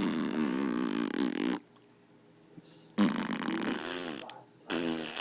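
A young child blowing raspberries, making buzzing, fart-like mouth noises with a wavering pitch in three bursts, the last starting near the end.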